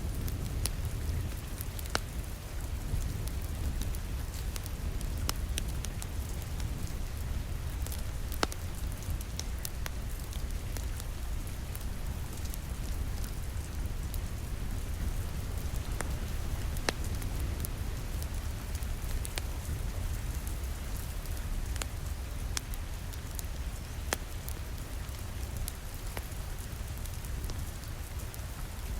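Rain falling against a window mixed with a crackling fireplace fire: a steady hiss and low rumble with scattered sharp pops and ticks.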